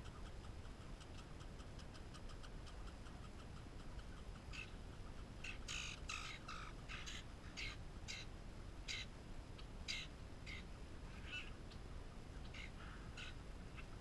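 Faint, fast ticking of a red squirrel husking sunflower seeds close by, then, from about a third of the way in, a string of short, harsh bird calls, roughly two a second and loudest near the middle, over a steady low rumble.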